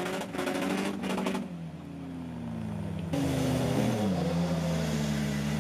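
Off-road 4x4 engines working under load in deep mud, with a rapid clatter over the engine at first and the revs then falling. About 3 s in, an abrupt change brings a louder engine whose revs rise and fall.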